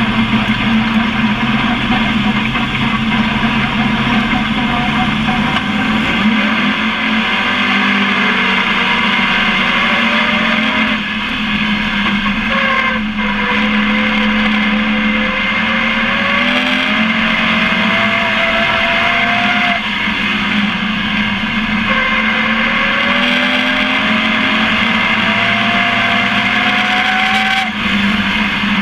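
Pro Truck race truck's engine heard from onboard at racing speed, with wind and road noise. Its pitch climbs steadily twice and drops back each time as the truck accelerates down a straight and lifts for the turn.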